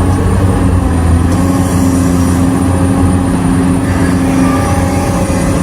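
Heavy diesel engine of a mining excavator or haul truck running steadily at an even pitch, a deep constant hum.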